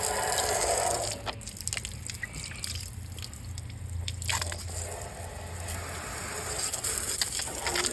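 Water splashing and dripping in wet cleaning, stopping for about three seconds with a few small clicks, then starting again.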